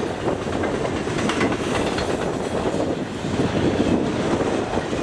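Double-stack intermodal well cars rolling past, steel wheels clattering over the rail joints in a steady stream of clicks, with wind buffeting the microphone.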